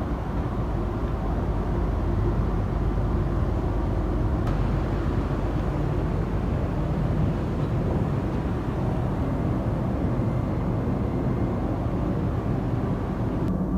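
Steady rumble of a KTMB ETS electric train running, with no distinct events.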